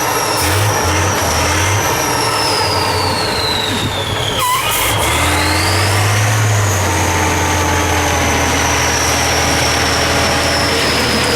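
Off-road trial truck's diesel engine working under load, with a high whine that sinks in pitch for about four seconds, then climbs sharply as the engine revs up again and slowly eases off.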